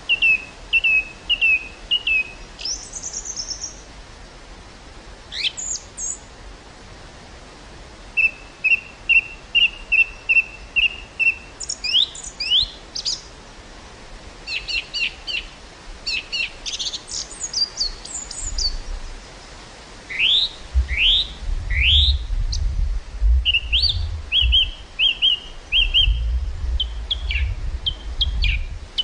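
Small birds singing, with runs of quick repeated chirps, rising whistled sweeps and fast trills. In the second half, two gusts of wind rumble on the microphone.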